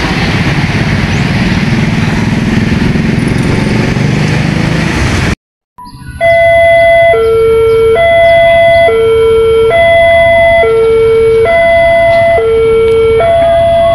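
A loud, even rushing noise, then an abrupt cut to a railway level-crossing warning alarm: an electronic two-tone signal switching between a high and a low tone about once a second. It warns that a train is approaching and the crossing barriers are closing.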